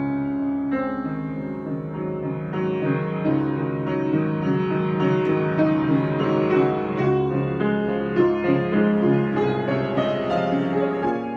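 Improvised keyboard music: chords and melody notes played continuously, with notes ringing on over one another.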